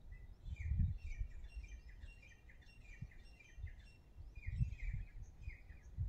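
A flock of small birds chirping, many quick high chirps in overlapping runs, with low rumbling bumps on the microphone underneath.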